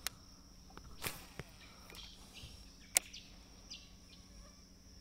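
Steady high-pitched insect drone, with a swish about a second in and a sharp click, the loudest sound, about three seconds in.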